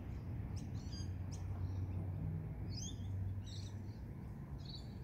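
Small birds chirping in short, scattered calls over a low, steady rumble of outdoor background noise.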